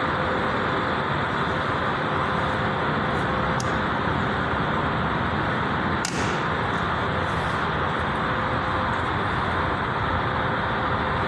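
Steady, unbroken road or traffic noise, with a faint steady hum and a single short click about six seconds in.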